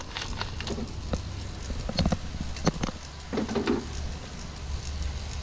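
Scattered light metallic clicks and clinks of an 8 mm socket on an extension and ratchet working the bolts of a Cummins ISX crankcase filter cover, with a short scrape about three and a half seconds in, over a steady low hum.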